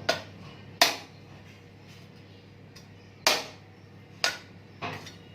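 A coconut being chopped open with a heavy blade: five sharp strikes at uneven intervals, two in the first second and three more between about three and five seconds in.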